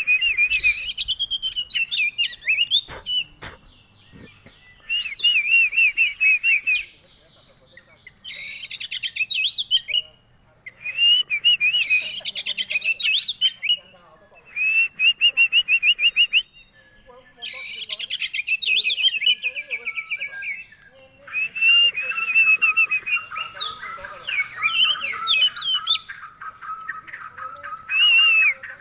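Oriental magpie-robin (kacer) singing: bursts of rapid, varied whistled and warbling phrases, each a second or two long, broken by short pauses, with a longer run of song near the end.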